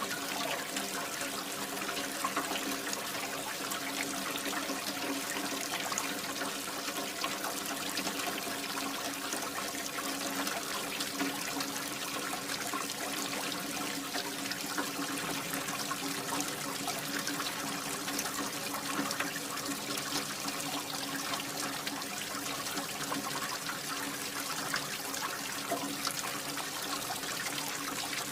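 Water pouring and splashing steadily from a mini water pump's outflow, with a faint steady hum from the small pump motor underneath.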